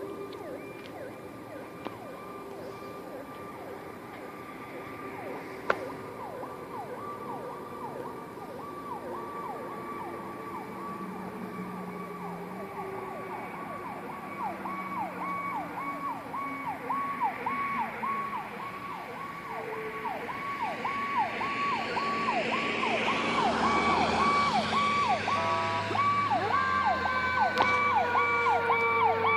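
Electronic siren of a responding fire apparatus in a fast yelp, about two sweeps a second, faint at first and growing louder as it approaches over the last ten seconds. Near the end, falling tones and a low engine rumble come in as the apparatus draws close.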